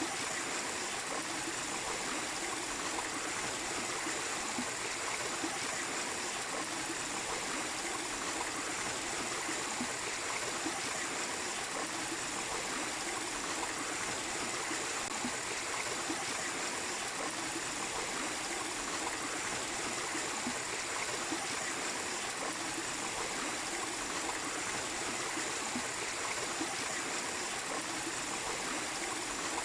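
Small waterfall splashing and rushing steadily into a stream, with a steady high-pitched tone running above the water noise.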